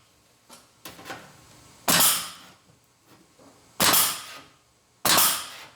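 Air-powered hole punch (Astro) punching plug-weld holes through a sheet-steel firewall: three sharp punches about two seconds apart, each fading over about half a second, with a few lighter clicks before the first.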